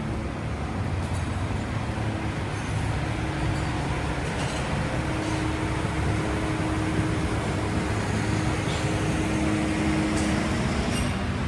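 Busy city street traffic: a steady low rumble of vehicle engines, with a faint steady hum from an idling engine.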